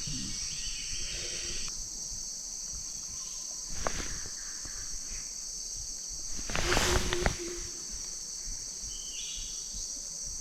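Steady high-pitched chorus of forest insects, with a few brief clicks or knocks about four seconds in and again around seven seconds.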